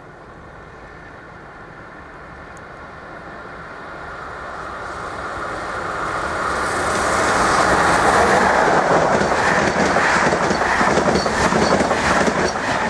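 Electric locomotive-hauled passenger train approaching and passing at speed. It builds from a distant rumble to its loudest about eight seconds in, then the coach wheels keep up a steady rush with a rhythmic clatter over the rail joints as the coaches go by.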